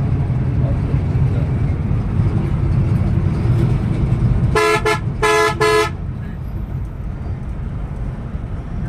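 Steady low rumble of a Scania Metrolink coach running on the highway. About halfway through, a vehicle horn sounds twice: a short blast, then a longer one.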